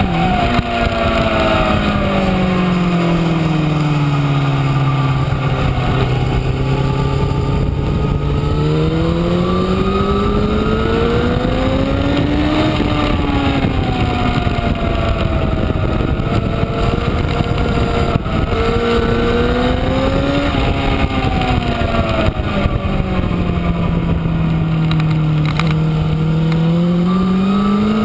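Honda CBR1000RR inline-four engine heard onboard at track speed, over steady wind rush. Its note falls through the first few seconds and stays low, climbs to a peak about twelve seconds in, then falls again. It rises and drops around twenty seconds, sinks low again and begins climbing near the end.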